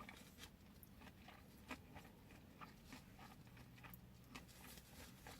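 Near silence with faint, irregular soft clicks of a person chewing a mouthful of sushi.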